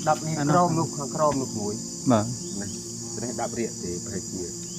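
Steady, high-pitched chorus of insects in the forest, with people's voices talking on and off beneath it.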